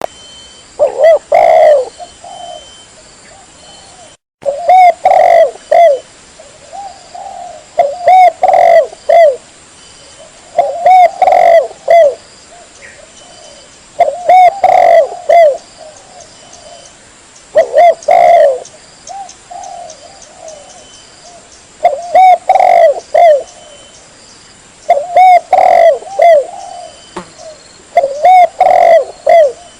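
Spotted dove cooing: about nine loud phrases of several coo notes each, repeated every three to four seconds, with a brief cut in the sound about four seconds in.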